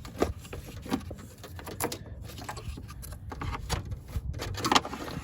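Scattered clicks and light metal knocks of refrigerant hoses, fittings and tools being handled at an engine bay, with no steady rhythm and a short cluster of knocks near the end.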